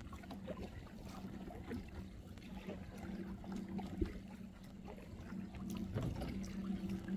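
Kayak paddle strokes: soft splashes and water dripping off the paddle blades, over a steady low hum.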